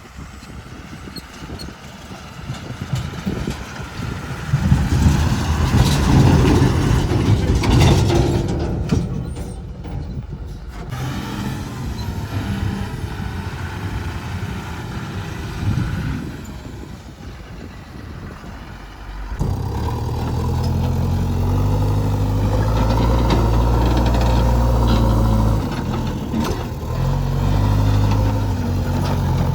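Heavy diesel engines of a JCB 3DX backhoe loader and a truck at work loading mud, the revs rising and falling, then a louder, steady engine note from about twenty seconds in.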